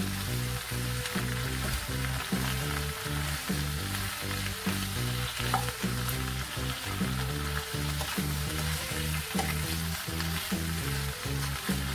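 Chopped cabbage sizzling in a hot wok as it is stirred and tossed with a plastic spatula, with short scrapes and clicks of the spatula against the pan. Background music with a steady bass line plays underneath.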